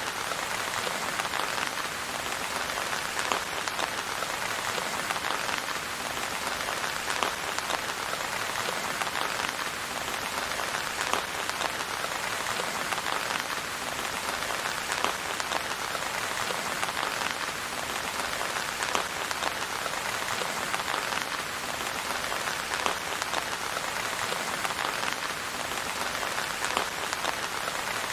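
Steady rain falling, with a dense patter of individual drops ticking through it.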